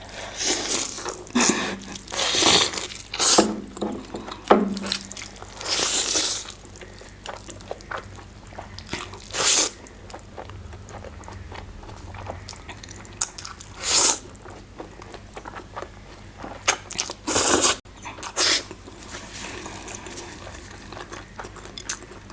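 Close-miked eating sounds: irregular bursts of biting, chewing and mouth noise as black bean noodles and egg are eaten, with several loud, sharp bursts spread through the stretch.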